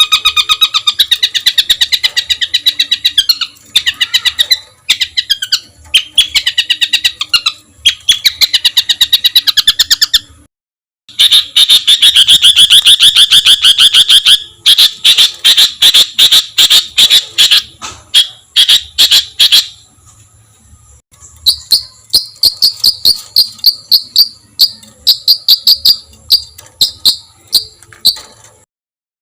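Songbird song made of harsh, rapid-fire repeated notes ('tembakan kasar'), loud and fast, in runs of several seconds broken by brief pauses, with a high, evenly paced series of notes near the end.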